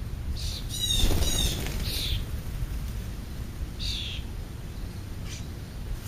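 High, squeaky bird calls: a rapid series about a second in, shorter calls around half a second and two seconds, and one more call about four seconds in, over a steady low rumble.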